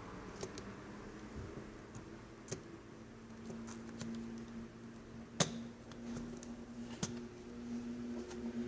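A few sharp, isolated clicks and taps of small hard plastic and metal parts being handled while a laptop is taken apart, the loudest about halfway through. Under them is a low steady hum that grows stronger in the second half.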